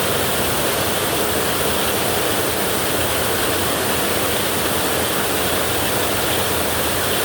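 Heavy rain drumming steadily on a tin roof, a dense unbroken hiss with no let-up.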